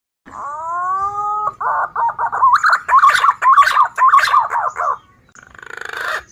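Green pigeon (punai) calls from a bird-lure recording: a rising whistled note, then a run of quick warbling whistles, and a harsher, hoarse call near the end.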